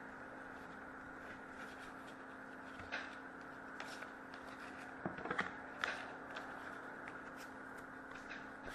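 Faint clicks and soft rustling of trading cards being handled, over a steady low hum.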